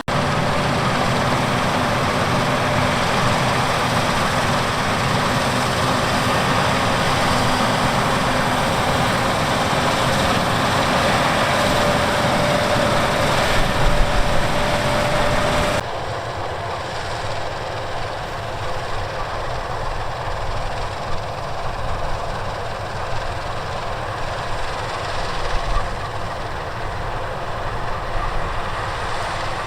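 Heavy harvest machinery running steadily, a combine harvester at work in wheat. About halfway through, the sound changes abruptly to a quieter machine noise.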